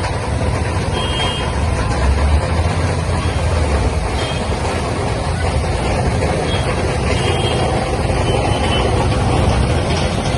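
A heavy vehicle's engine running with a steady low rumble, with short high beeps sounding several times.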